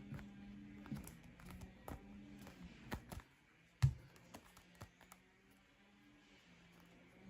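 Fingertips tapping and clicking on the surface of a football, in quick irregular ticks, with one louder thump about four seconds in. Faint background music runs underneath.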